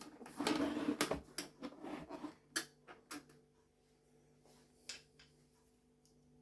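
Plastic parts of a vacuum cleaner being handled and pushed back into place during reassembly: a run of clicks and rattling over the first three seconds, then a single sharp click about five seconds in.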